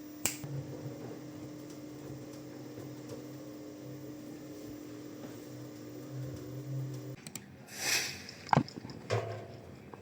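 Washing machine drain pump humming steadily during the first drain; the hum cuts off about seven seconds in. A rustle and a few sharp knocks follow.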